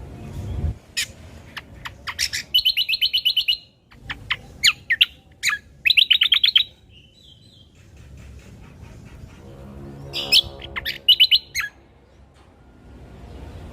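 Cucak kombo (kecial kombok) singing: loose phrases of sharp, high, downward-sweeping whistled notes and short rapid trills of repeated notes, with pauses between them.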